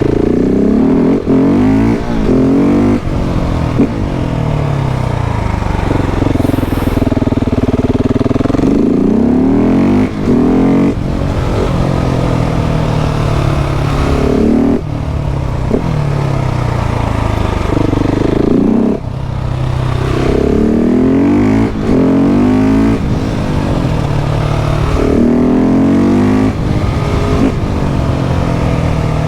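KTM 690 SMC R's single-cylinder engine under hard acceleration, climbing in pitch through the gears with short breaks at each upshift and falling away when the throttle closes, over and over.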